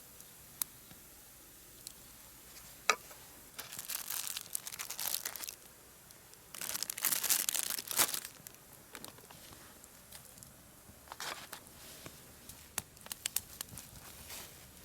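Packaging being crinkled and torn open, in two bursts of a second or two each, with a few sharp clicks around them.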